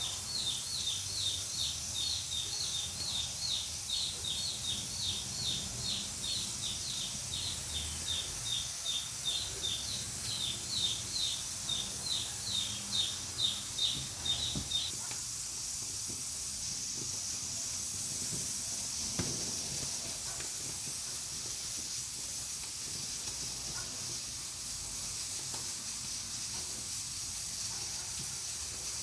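Pressure cooker on a wood-burning stove hissing steadily as steam escapes, the hiss growing stronger about halfway. Over the first half a bird calls in quick repeated short falling chirps, two to three a second, and stops about halfway.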